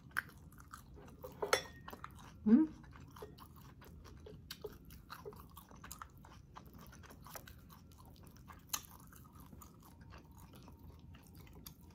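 Close-up chewing of fried milkfish (daing na bangus) eaten by hand, with wet mouth clicks, smacks and a few crisp crunches. About two and a half seconds in comes a short rising hum from the eater.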